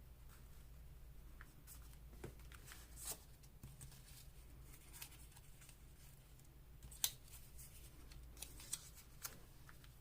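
Faint paper handling: scattered light ticks and rustles of paper pieces being cut and placed, the sharpest tick about seven seconds in, over a low steady hum.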